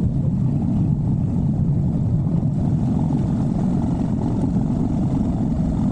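Motorcycle riding along at a steady pace: constant engine and wind noise with no changes.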